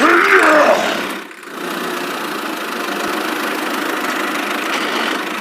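A small engine running steadily, its drone dipping briefly about a second and a half in. A short gliding voice-like sound comes at the start.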